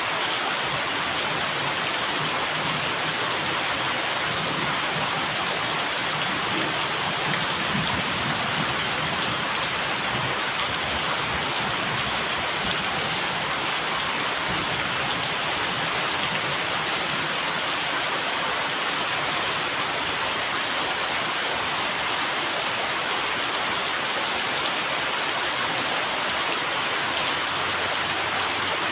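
Steady rain falling without a break.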